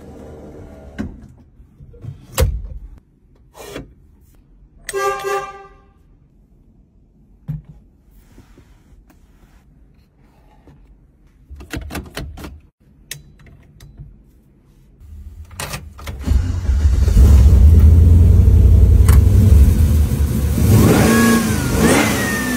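Scattered clicks and knocks from the car's interior and a brief horn beep about a quarter of the way in. Then the 1955 Chevrolet 210 restomod's engine starts and runs loud, with a rev that rises and falls near the end.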